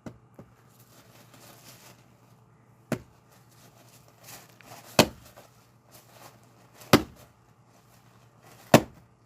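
An axe striking a log five times, one blow about every two seconds, the later blows the loudest. The log does not split: it is water-soaked wood, and onlookers say that striking it this way will not crack it.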